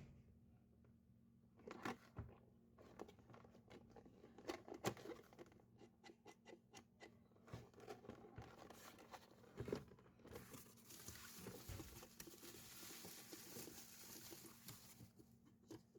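Faint handling noises: irregular clicks and scrapes, then a steady hiss lasting about four seconds.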